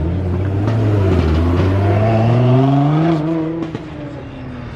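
A car engine accelerating hard, its pitch climbing steadily for about three seconds before the sound drops away, as when a car pulls away or speeds past.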